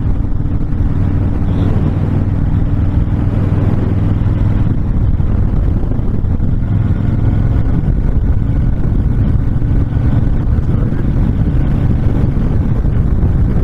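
Honda VTX1300 cruiser's V-twin engine running steadily at road speed, with wind rushing over the microphone.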